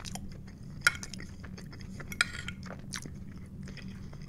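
A man chewing a mouthful of loaded tater tots, with wet mouth noises and two sharp clicks, one about a second in and one just past two seconds, over a steady low hum.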